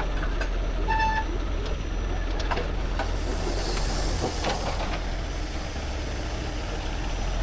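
Heavy truck diesel engine running steadily with a low hum, with one short beep about a second in.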